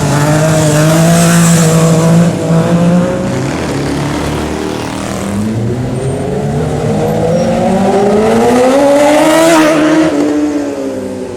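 Sport motorcycle engines running loud and high-revving; after a dip mid-way, one engine rises steadily in pitch as it accelerates past, peaking near the end and then dropping away.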